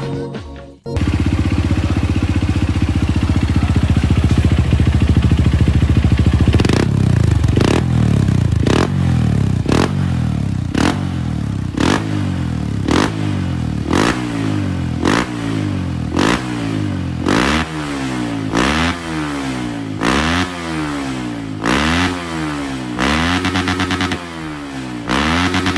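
Trail motorcycle with a Norifumi Rocket4 racing exhaust, stock engine and BRT ECU, idling steadily from about a second in, then blipped over and over: the revs rise and drop back about once a second, climbing higher in the later blips.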